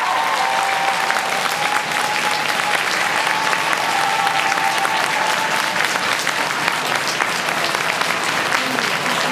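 Arena audience applauding: many hands clapping steadily, with a faint held tone under it for the first few seconds.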